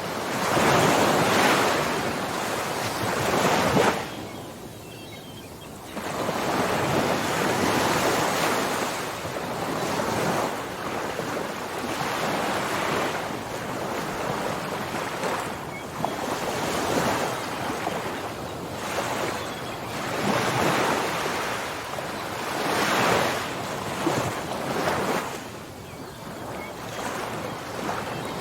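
Ocean waves breaking and washing on a shore, swelling and falling away every few seconds, with a brief lull about four seconds in.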